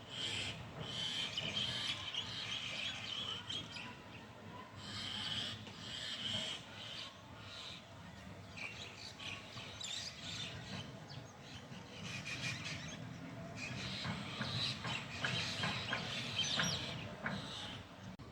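Many birds chirping and calling at once, a dense overlapping chatter of short high notes with no pause, over a low steady rumble.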